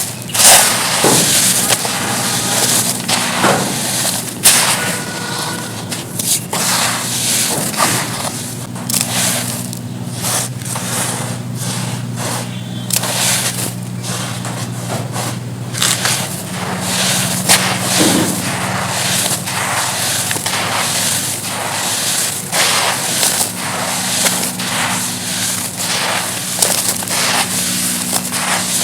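Lumps of pure charcoal being crushed and crumbled by hand, a dense run of crisp crackling and crunching, with sharper snaps near the start.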